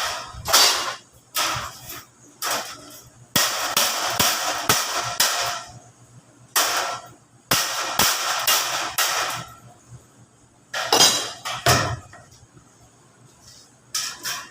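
Irregular hammer blows on thin plain sheet metal that is being bent, some blows followed by a second or two of the sheet rattling.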